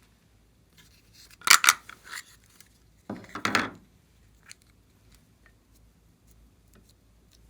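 Two short bursts of crisp clicking and scraping from small hard objects being handled, about a second and a half apart, followed by a few faint ticks.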